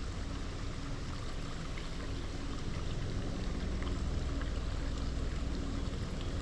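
Creek water running steadily, with a low rumble underneath.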